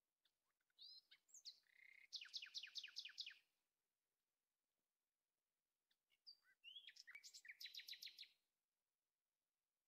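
A songbird singing two short songs about four seconds apart. Each opens with a few quick whistled notes and ends in a fast run of falling notes, about eight a second.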